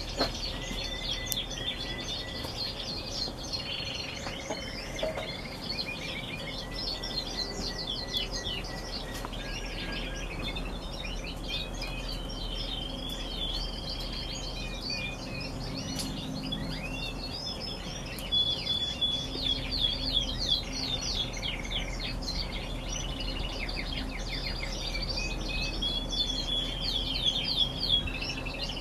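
Several domestic canaries singing at once in overlapping rapid trills, chirps and held whistled notes, with louder stretches about two-thirds of the way through and near the end.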